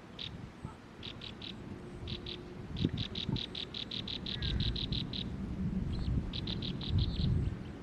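A bird calling in quick runs of short, high, repeated notes, the longest run about two seconds at some eight notes a second. Low rumble sits underneath, with a couple of dull thuds.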